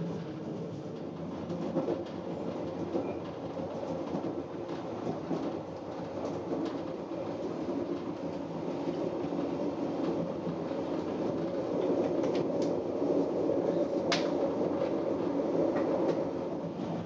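Inside a moving MBC regional electric train: the steady rumble of the carriage running along the track, growing a little louder in the second half. Near the end come a few brief sharp clicks, one much louder than the rest.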